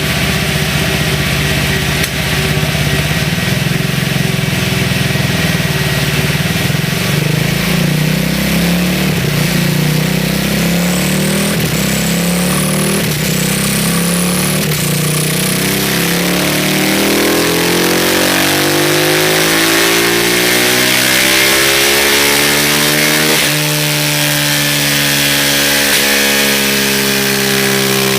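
Suzuki DR-Z400SM's single-cylinder four-stroke engine with a Yoshimura Mikuni TMR-MJN carburettor and Yoshimura twin-outlet exhaust, running hard on a chassis dynamometer. It holds a fairly steady speed at first, then its pitch climbs steadily through the second half as it revs up under load in a power run, with a brief dip about two-thirds of the way in.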